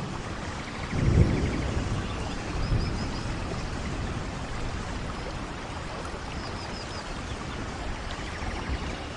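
Steady rain falling on forest foliage, an even patter and hiss, with a brief low rumble about a second in and a few faint high chirps.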